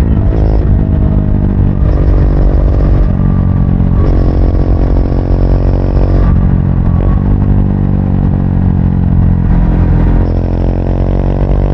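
Triumph Speed 400's single-cylinder engine running under way on the road, its note rising and dropping several times as the rider works the throttle.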